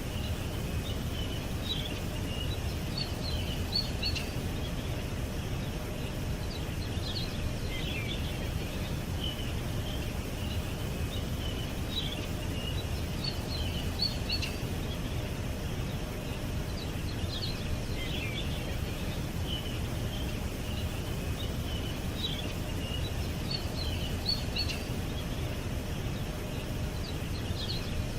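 Songbirds chirping in short clusters every few seconds, over a steady low background rumble.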